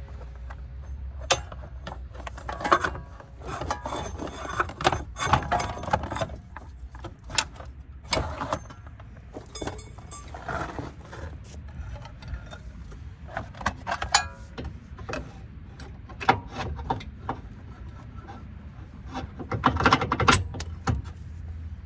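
Metal hand tools and car parts clinking, knocking and scraping in irregular bursts during hand work on a car's front suspension, with a flurry of clatter near the end, over a steady low rumble.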